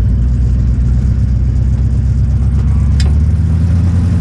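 Crown Victoria race car's V8 engine idling steadily, with a short sharp click about three seconds in.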